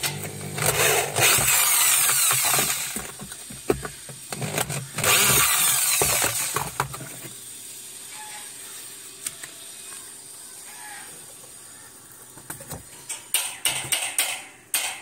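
Cordless power screwdriver running in two bursts, about a second in and again about five seconds in, backing out two screws. A run of sharp clicks and knocks follows near the end as the part is handled.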